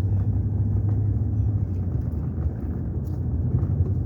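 Steady low rumble of a vehicle being driven along a road: engine and tyre noise.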